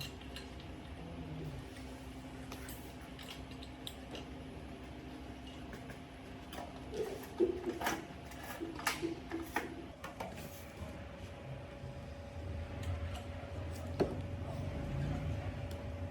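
Small parts and hand tools being handled in a repair: scattered clicks and light taps over a faint steady hum, with a few duller knocks near the end.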